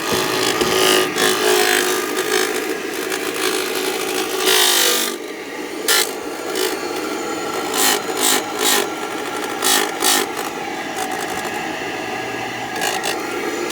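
Induced draft blower motor of a GrandAire gas furnace running after being broken loose from a seize: a steady mechanical hum with rubbing and scraping and irregular sharp clicks. The motor is noisy and not fit to keep in service.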